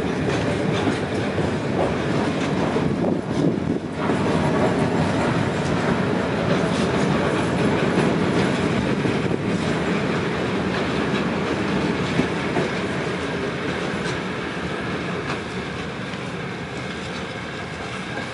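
Freight train of loaded coal wagons and flat wagons rolling past, its wheels clattering steadily over the rail joints, easing off near the end as the last wagons go by.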